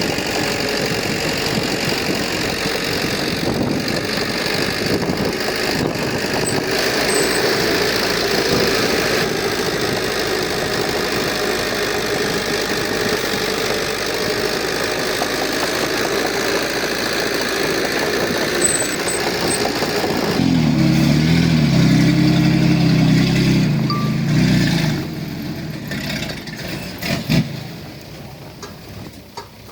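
Heavy diesel earthmoving machinery running steadily. About two-thirds of the way in, a strong lower engine note takes over and wavers up and down in pitch for a few seconds, then the sound drops away, with a couple of knocks near the end.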